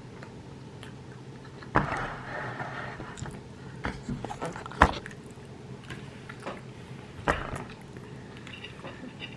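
Someone eating at a table: quiet chewing, with three sharp knocks spread about two and a half seconds apart.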